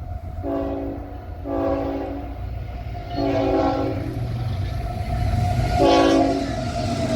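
Diesel locomotive air horn sounding four blasts, each a chord of several tones, over the low rumble of the approaching train.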